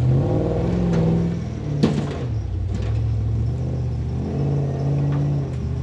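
Rock-crawling truck's engine revving up and down under load, run in high range only with the clutch being slipped to crawl over the obstacle. One sharp knock a little under two seconds in.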